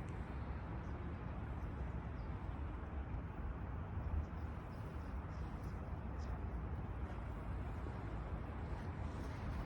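Wind blowing through grass: a steady low rumble with an even hiss of rustling.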